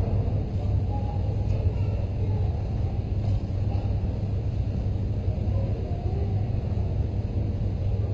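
Car engine sound effect: a steady low rumble of a car running.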